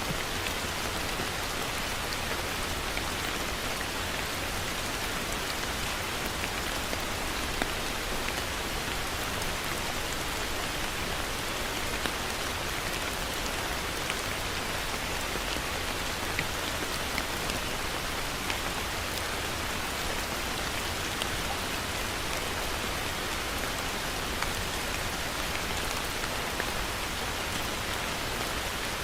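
Heavy rain falling steadily, a dense even hiss dotted with occasional sharper drop impacts.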